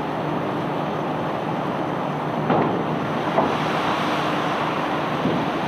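Engine of cobblestone-unloading machinery on a barge running steadily, with a few sharp knocks about two and a half and three and a half seconds in.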